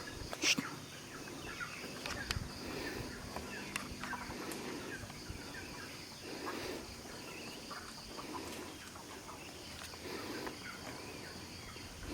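Faint chickens clucking, with one sharp click about half a second in.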